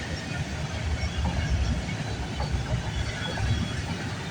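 CN freight train's cars rolling past on the rails: a steady, continuous rumble with a fine clatter of wheels over the track.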